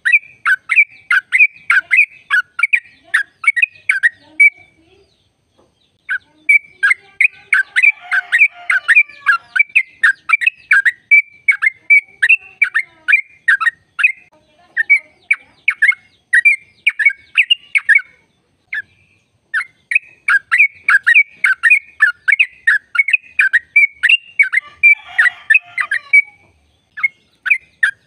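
Yellow-vented bulbul (trucukan) song: long, fast runs of sharp repeated chirping notes, about four a second, broken by brief pauses. Harsher chattering comes in about a third of the way through and again near the end.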